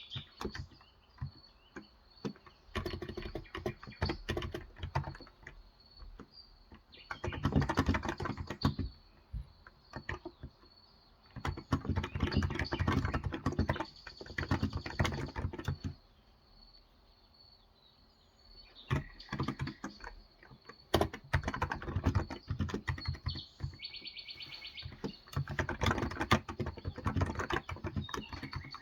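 Typing on a Cox Endeavor electrostatic capacitive (Topre-style) tenkeyless keyboard with 35 g switches, in bursts of rapid keystrokes, with a pause of a few seconds past the middle. Birds chirp in the background.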